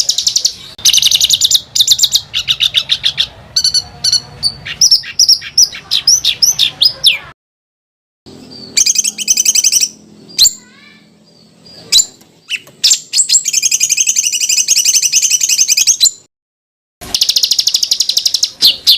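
Edited songbird masteran track: dense, rapid high trilling rolls and harsh chattering phrases from cage songbirds. The song is broken twice by short dead-silent gaps where recordings are spliced.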